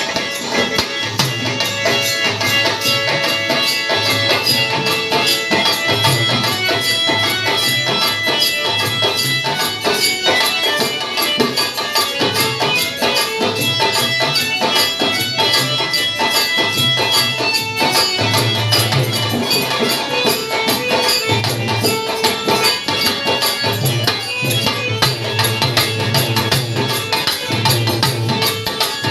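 Opening instrumental of a Bhojpuri birha folk song: a sustained melody over a fast, steady beat of hand drums and jingling percussion.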